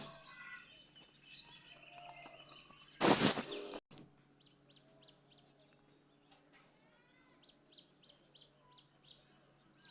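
Small birds chirping in the background, ending in a quick run of short high chirps. About three seconds in, a loud burst of noise lasts under a second and cuts off abruptly.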